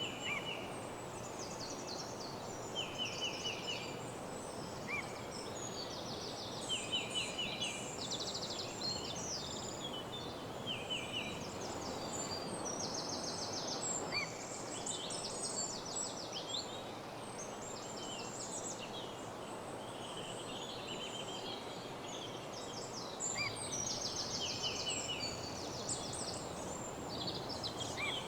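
Several small songbirds singing in a dawn chorus, with short rapid trills and chirps overlapping throughout, over a steady rushing background noise.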